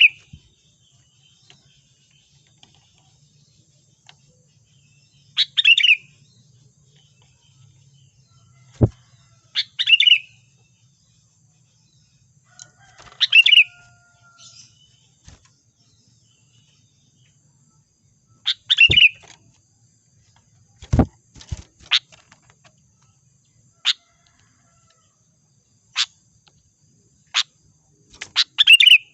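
Sooty-headed bulbul (kutilang) lure call: short chirping phrases repeated every four to five seconds, billed as a female calling for males. Several sharp clicks come between the calls in the second half.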